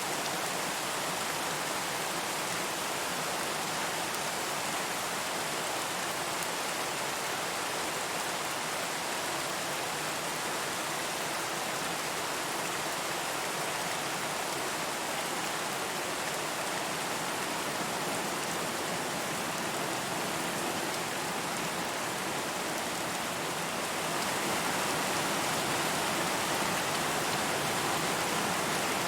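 Steady rain falling, a dense even hiss of drops, growing a little louder near the end.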